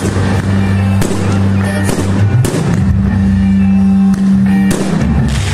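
Fireworks going off: several sharp bangs, about one every second or two, over music with steady low bass notes.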